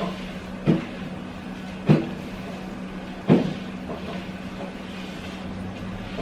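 Three short knocks, about a second or so apart, in the first half, over a steady low hum.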